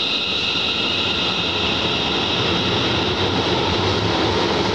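Electric train running at an underground airport rail platform: a high steady whine fades over the first couple of seconds while a low rumble of the train builds toward the end.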